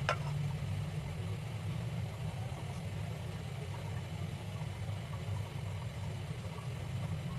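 Steady low mechanical hum, with a sharp click right at the start.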